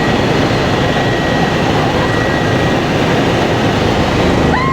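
Kawasaki BK 117 B-2 twin-turbine helicopter in flight, heard from inside the cabin: a steady, loud rush of turbine and rotor noise with a faint high whine. Near the end a rising tone starts over it.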